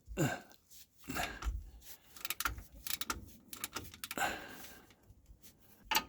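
Ratcheting wrench clicking in irregular short runs, with small metal knocks of tools being handled, as a plug on the RV's rear end is worked loose.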